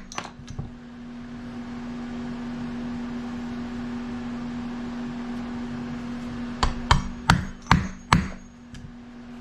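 Sharp knocks and taps of hand tools or small metal parts on a workbench: a couple near the start and a quick run of about five about seven seconds in, over a steady hum.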